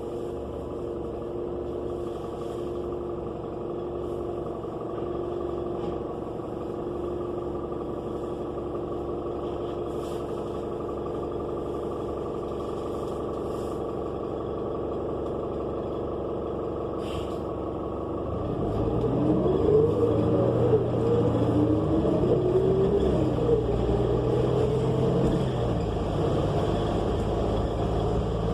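Cummins Westport L9N natural-gas engine of a New Flyer XN35 transit bus, heard from inside the bus, running steadily at low revs. About two-thirds of the way through it gets louder and speeds up as the bus accelerates, the pitch climbing and dropping back several times as the Allison automatic transmission shifts up.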